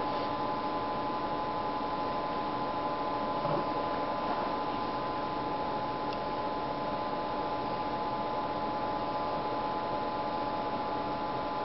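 Steady background hiss with a constant electrical hum made of several steady tones, and a faint soft knock about three and a half seconds in.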